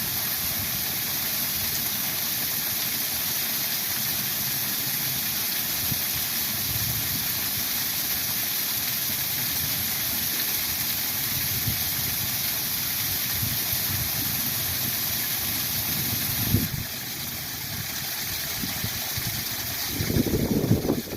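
Steady rush of a small spring waterfall. About three-quarters of the way through the sound changes abruptly with a thump, and near the end a low rumble of wind buffets the microphone.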